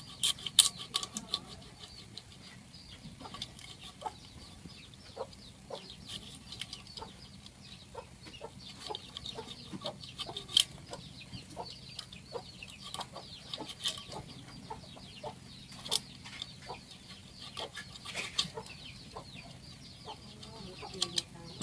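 Birds clucking and chirping in short, scattered calls, like domestic fowl, over a faint steady hum.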